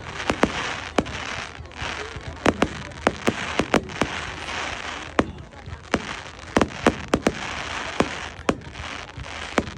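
Fireworks display: many sharp bangs at irregular intervals, often two or three close together, over a continuous crackle.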